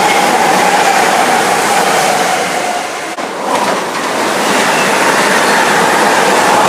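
A passenger train passing at speed close by: a steady rush of steel wheels on the rails with a high ringing tone through it. The sound briefly drops about halfway through, then comes back up.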